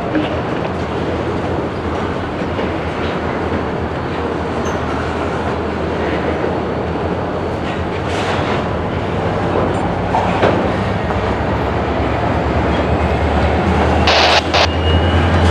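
Freight cars rolling through a rail yard, with steady rumbling and wheels clacking over rail joints. Near the end come several loud bursts that start and stop abruptly.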